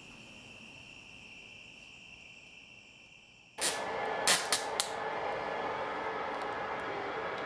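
Faint steady high chirring of crickets at night. About three and a half seconds in it gives way to a steady rushing room noise, and packing tape is pulled off its roll in a few short rasping rips.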